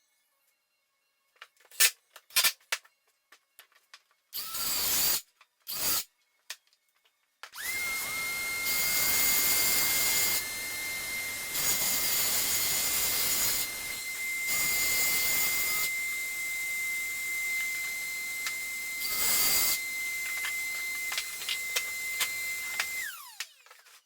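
Handheld circular saw cutting through a wooden table top along a guide: two short blips of the motor, then a run of about fifteen seconds with a high motor whine that climbs quickly at the start, holds steady while the cutting noise swells and eases, and drops away as the saw winds down near the end.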